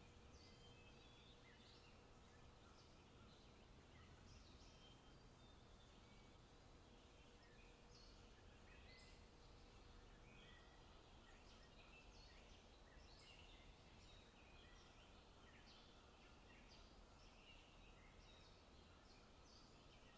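Faint forest birdsong: many short chirps and brief trills from several small birds, over a low steady background rumble.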